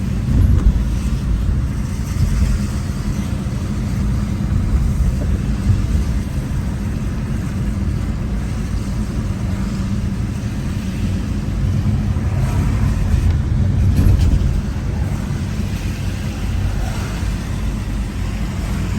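Car driving: a steady low rumble of engine and tyres on the road.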